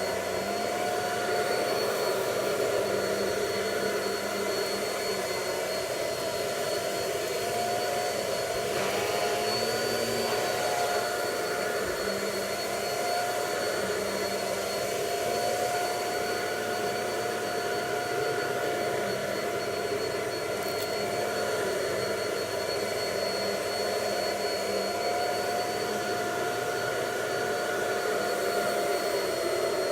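Vacuum cleaner (Power Force Rewind Pet PowerLifter) running continuously as it picks up cornstarch from carpet: a steady motor whine over rushing air, its pitch wavering slightly as the load changes.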